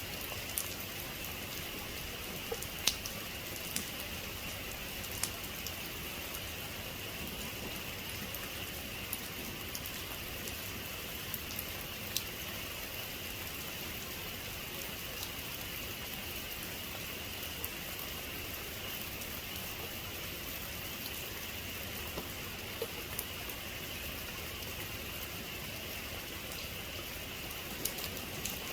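Steady rain falling, with scattered sharp drop hits ticking through it. The sharpest comes about three seconds in. No thunder.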